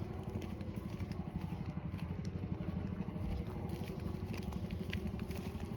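A small engine running steadily with an even, fast pulsing, with a few faint clicks over it.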